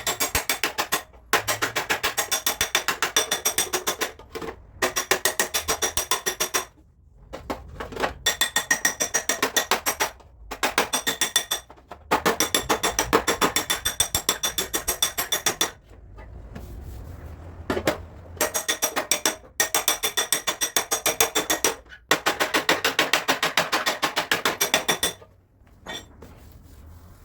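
Hammer tapping rapidly on a car's sheet-metal front fender, many quick ringing metallic blows a second, in runs of one to four seconds with short pauses between them.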